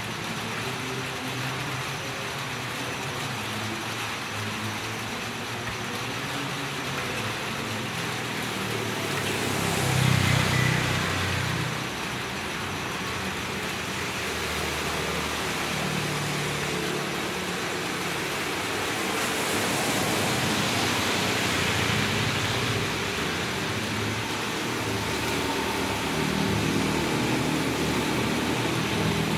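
Steady rain falling on a village street, with vehicles driving past on the wet road: swells about ten seconds in (the loudest), around twenty seconds in, and a motorbike passing near the end.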